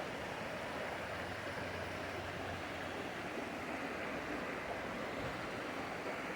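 Steady rush of flowing water from a mountain stream, an even, unbroken sound.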